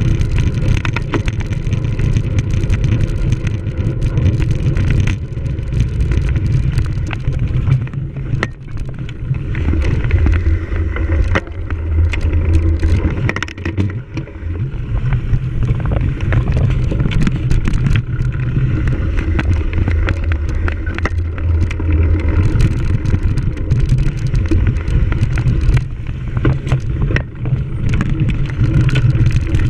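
Cyclocross bicycle ridden over rough ground, with a steady low rumble and frequent knocks and rattles from the bike. The rumble dips briefly twice, about eight and fourteen seconds in.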